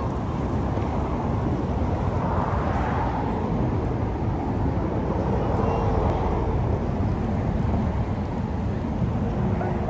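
Wind buffeting the microphone: a steady, loud low rumble, with a faint short tone near the middle.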